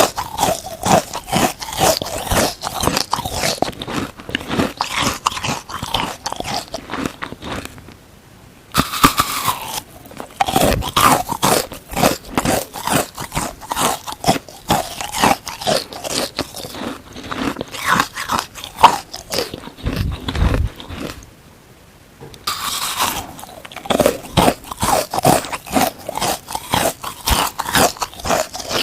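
Frozen watermelon sponge being bitten and chewed close to the microphone: dense, fast crunching and crackling, with two brief pauses about eight and twenty-two seconds in.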